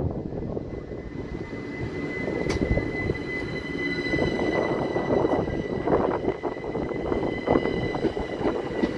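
Southern Class 377 Electrostar electric train moving slowly past along the platform: the rumble and clatter of its wheels, with a steady high whine joining in about two and a half seconds in.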